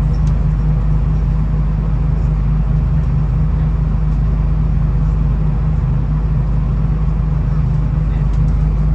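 Steady low drone of a V/Line VLocity diesel railcar, heard from inside the carriage: engine hum and running noise that holds even throughout.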